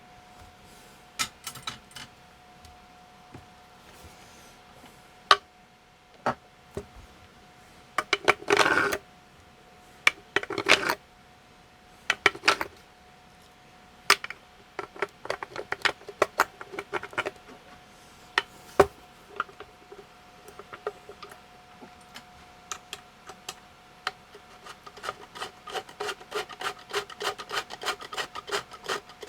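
Scattered clicks, knocks and brief rubbing as hands handle a DVW Husky handheld computer, turning into a fast run of key taps near the end. A faint steady tone sits underneath.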